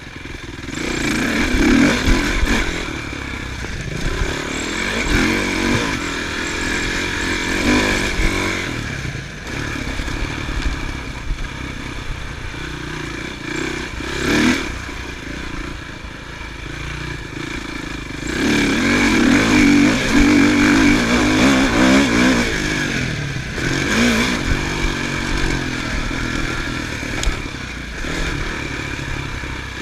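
Motocross bike engines revving and easing off again and again, rising and falling in surges, with the loudest stretch about two-thirds of the way through.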